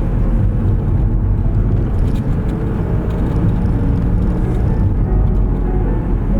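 Steady rumble of a car driving on snow-covered streets, engine and tyre noise heard from inside the cabin.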